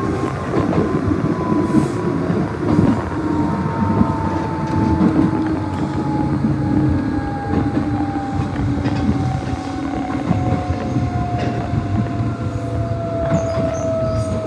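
Nishitetsu 600 series electric train running, heard from on board: a steady rumble with wheels knocking over the rail joints, and a drive whine that falls slowly in pitch as the train loses speed.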